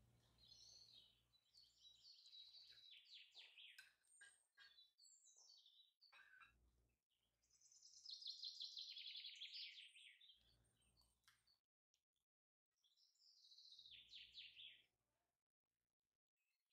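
Faint bird song: several phrases of fast, falling trills, each a second or two long, repeated with short pauses.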